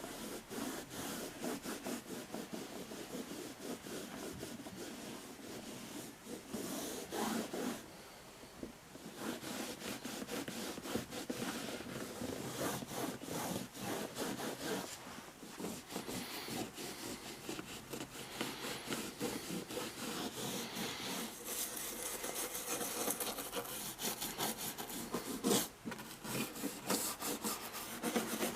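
Fast back-and-forth rubbing strokes, as of hand cleaning or polishing, with a brief pause about eight seconds in.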